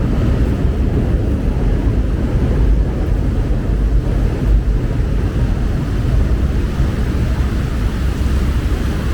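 Steady, loud low rumble of city street noise: road traffic mixed with wind buffeting the microphone.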